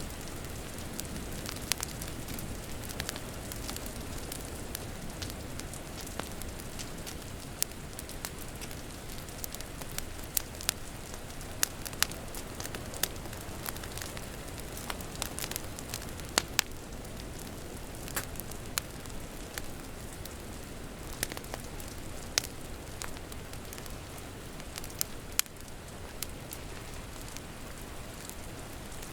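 Wood fire crackling, with sharp, irregular pops scattered over a steady rain noise.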